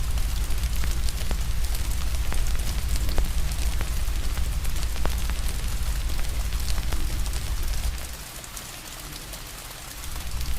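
Steady rain hiss mixed with the scattered crackles and pops of a wood fire, over a low rumble. The low rumble and the overall level drop away for about two seconds near the end, then come back.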